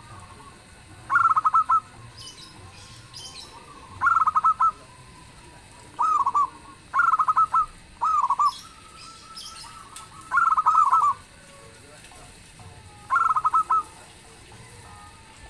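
Zebra doves (perkutut) cooing: about seven short bursts of rapid staccato coos, each about half a second long, spaced one to three seconds apart. Faint high-pitched chirping sounds behind them in the first few seconds.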